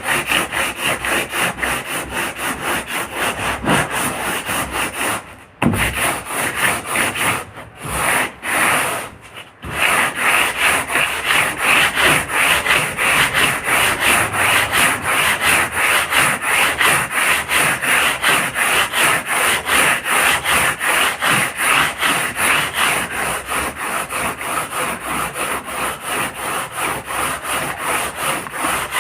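Hand sanding of a boat hull: fast, even back-and-forth rubbing strokes of abrasive on the hull, with a few short breaks between about five and ten seconds in.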